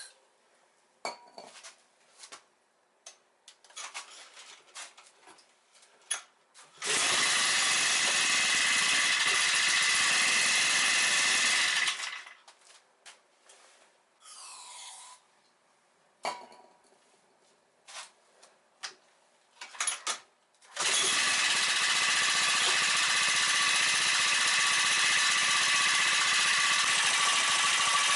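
Spider mower's two-stroke engine, its ignition coil just replaced, running for about five seconds and stopping, then started again about 21 seconds in and running steadily on. Scattered clicks and knocks come before each run.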